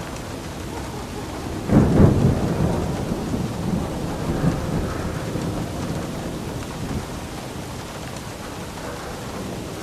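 Steady rain with a clap of thunder about two seconds in that rumbles and rolls away over the next few seconds.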